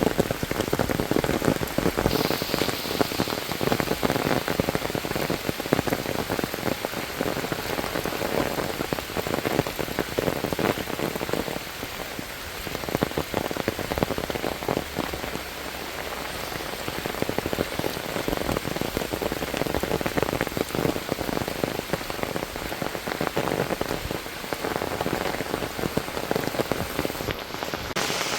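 Heavy monsoon rain falling steadily, with a dense stream of close raindrop hits.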